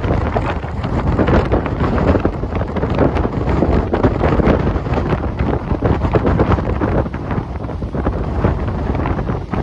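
Siemens EMU suburban electric train running at speed, heard from on board as a steady loud rumble and rattle, with heavy wind buffeting the microphone.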